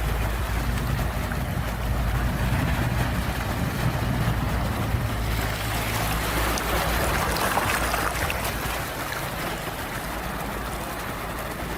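Ocean surf: a steady wash of sea waves, with one wave surging in and hissing loudest a little past the middle. A low rumble sits under the first half.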